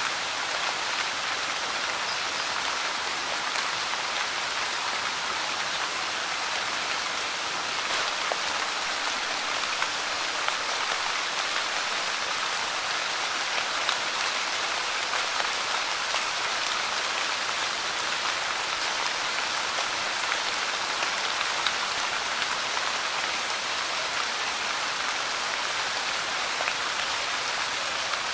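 Light rain falling steadily on a Monstera deliciosa leaf, with small ticks of single drops striking scattered through it.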